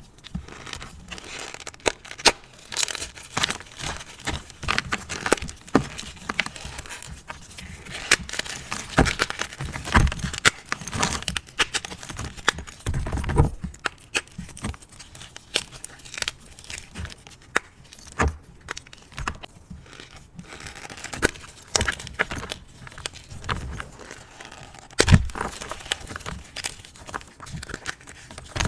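Hard reformed gym chalk lightly coated in cornstarch being broken and crushed: irregular crunching and sharp cracking, with crumbly, crackly rustling between the snaps. A few louder cracks stand out, around ten, thirteen and twenty-five seconds in.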